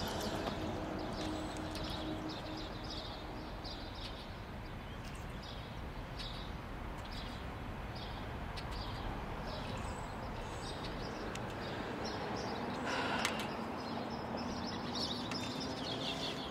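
Outdoor ambience: small birds chirping again and again over a steady low background hum, with a brief rustling sound about thirteen seconds in.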